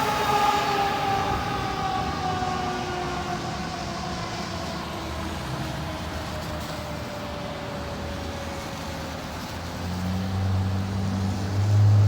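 Fire truck siren winding down, one long tone whose pitch falls slowly as it fades. Near the end a low vehicle engine rumble swells up and becomes the loudest sound.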